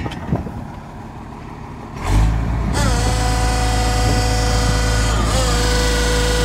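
Heavy engine-driven machinery: a loud low drone starts suddenly about two seconds in. A high whine dips in pitch, then holds steady over it, after a quieter stretch of scattered knocks.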